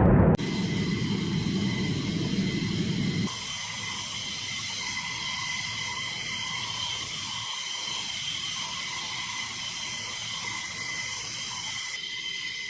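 F-15 fighter jet engines running with a steady high-pitched turbine whine over a hiss. A low rumble under it drops away abruptly a few seconds in.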